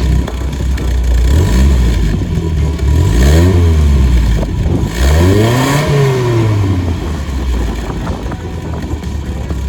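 MGB four-cylinder engine with long-tube headers idling, revved twice: the pitch climbs and falls back at about three seconds in and again near six seconds, then settles back to idle.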